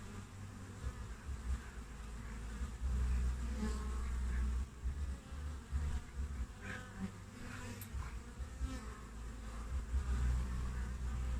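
Western honeybees (Apis mellifera) buzzing at a hive entrance. Now and then a single bee's wing drone swells briefly as it flies close, over a low steady rumble.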